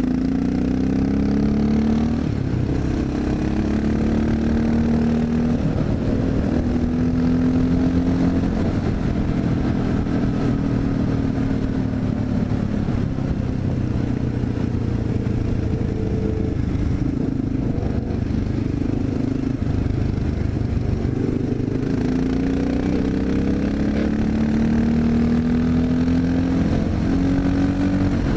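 Honda XR650L's single-cylinder four-stroke engine running in gear on a downhill ride, engine braking, its pitch rising and falling several times with the throttle.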